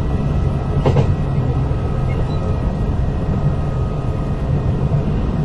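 Kintetsu 8000 series electric train running, heard from inside car 8079: a steady low rumble of wheels on rail with a faint steady whine, and a single sharp click about a second in.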